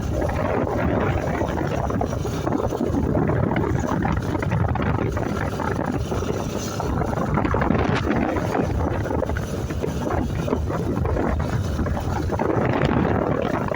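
Steady wind rushing over the microphone of a moving motorcycle, with the engine and road noise underneath.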